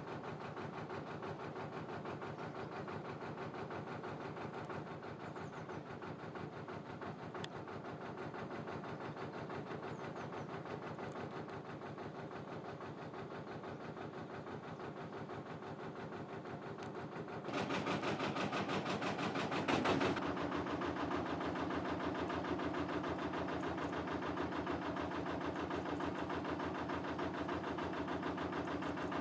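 Narrowboat diesel engine running with a steady, even beat. About seventeen seconds in a loud rushing hiss lasts two or three seconds, and after it the engine runs louder.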